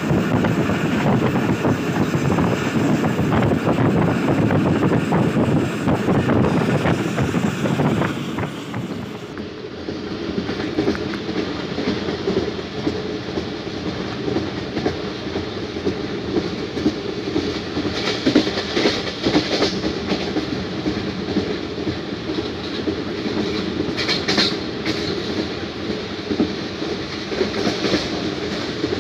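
Passenger train running at speed, heard from inside a carriage: a steady rumble with the wheels clattering over the rail joints. For about the first nine seconds a loud rushing noise covers it. After that the sound is a little quieter and steadier, with sharper wheel clicks now and then.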